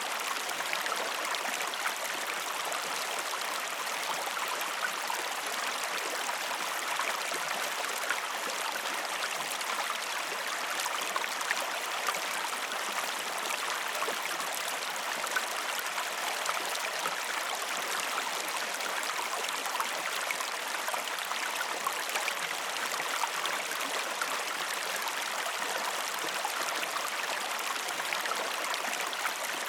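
A river flowing: steady, even rushing of water with small splashes and trickles.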